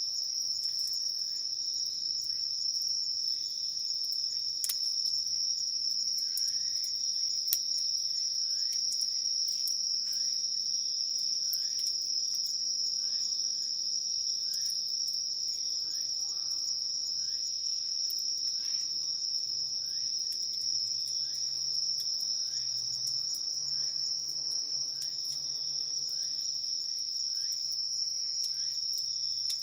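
Chorus of evening insects trilling in one steady, high-pitched, unbroken drone. Lower down, short falling chirps repeat at a steady pace, and a few faint sharp clicks come through.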